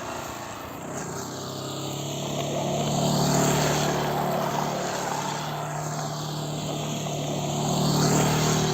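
Motorcycle engine running as the bike is ridden, its note holding steady and swelling louder twice.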